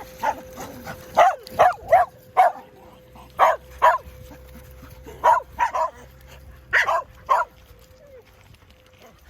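Excited dogs barking: about eleven short barks, mostly in quick pairs, with brief pauses between the groups.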